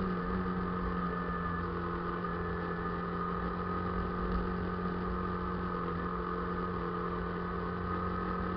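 A vehicle engine idling steadily, a constant low hum with no change in pitch.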